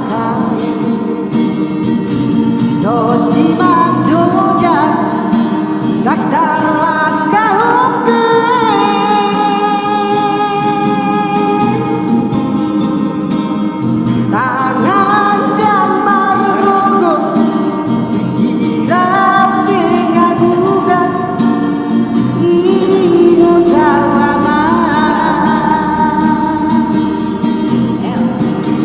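A solo voice singing a Batak song in long, held phrases with vibrato, over guitar accompaniment.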